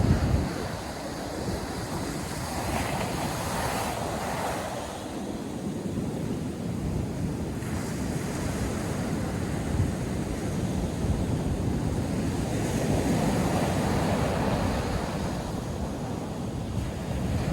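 North Sea surf breaking and washing in, a steady rush of waves that swells louder twice and eases between, with wind rumbling on the microphone.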